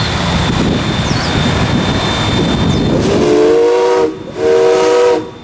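Steam locomotive whistle blowing two blasts, a chord of several steady tones, the first about a second long and the second a little shorter. Before it there is a few seconds of hissing steam. The whistle signals that the train is about to pull out.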